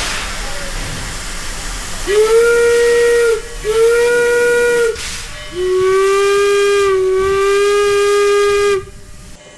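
Steam locomotive whistle blown twice, then held for a longer third blast at a slightly lower pitch, over a steady hiss of steam.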